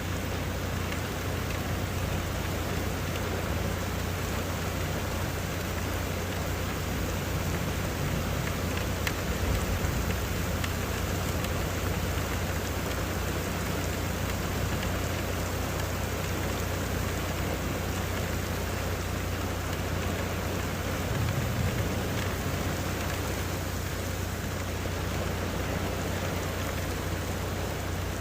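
Heavy rain pouring down steadily. A low rumble of thunder swells briefly twice, about ten seconds in and again about twenty-one seconds in.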